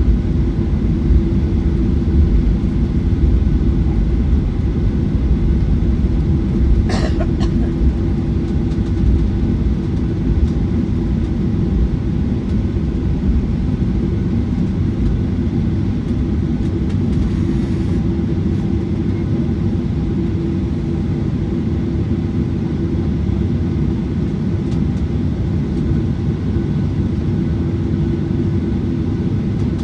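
Cabin noise of a Boeing 737-900ER with CFM56-7B engines, heard from a window seat: a steady engine rumble with a constant hum. There is one brief click about seven seconds in.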